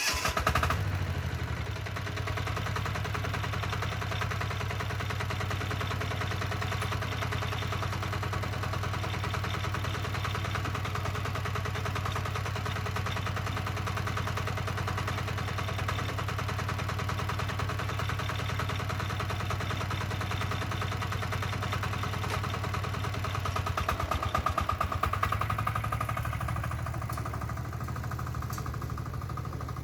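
Diesel two-wheel tractor (motocultor) engine running steadily; about 24 seconds in it grows louder for a couple of seconds before settling again.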